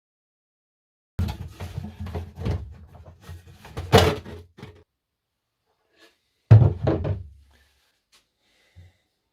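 Wooden knocks, rattles and thumps from an old cabinet and its parts being handled. There is a run of clattering knocks with one sharp knock about four seconds in, then a single heavy thump a little past halfway.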